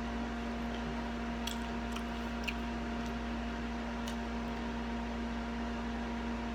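A steady low electrical hum with a few faint, short clicks scattered through it.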